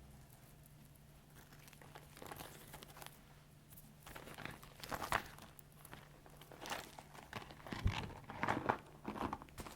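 Leather bags and gloves being handled, creaking and rustling in irregular squeezes. It starts faint and grows louder and busier about halfway through, with sharp creaks near the end.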